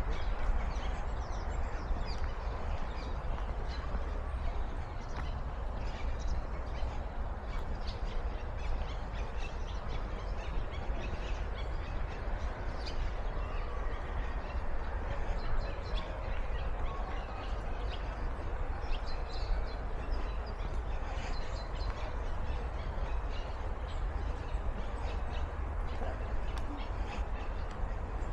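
Birds chirping and calling with many short, scattered calls throughout, over a steady low rumble.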